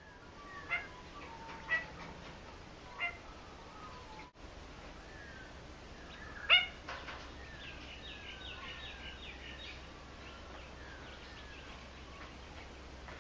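Aviary birds calling: four sharp, short yapping calls, the loudest about six and a half seconds in, over many soft downward-slurred chirps.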